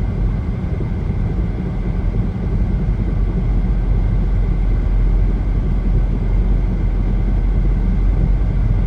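Car driving at highway speed: a steady low rumble of tyres and engine, getting slightly louder about two and a half seconds in.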